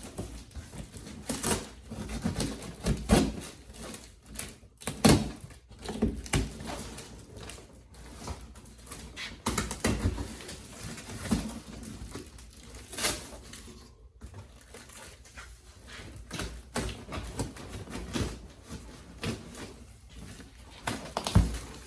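Shipping box and packing foam being handled and pulled open by hand: irregular rustling, crinkling and small knocks, with no steady tone.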